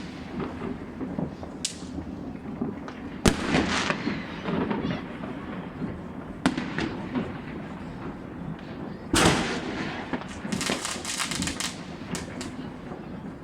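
Fireworks going off: a few separate sharp bangs, the loudest about three seconds in, then a quick run of crackling pops about ten seconds in, over a steady background rumble of distant fireworks.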